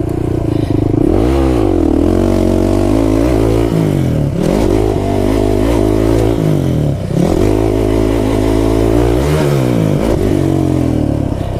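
Kawasaki KFX 450R quad's single-cylinder four-stroke engine running hard around a track, the revs rising and falling over and over as the throttle is worked through turns and shifts.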